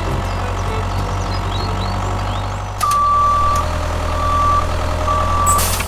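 A vehicle engine runs steadily, and from about three seconds in a reversing alarm beeps three times, about once a second.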